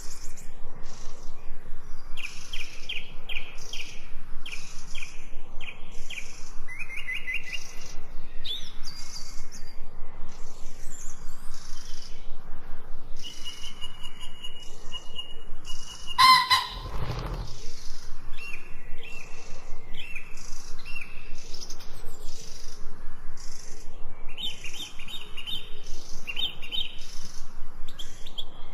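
Songbirds chirping and trilling in quick repeated notes, several calls overlapping, with one held whistle and a single louder, sharper sound about midway.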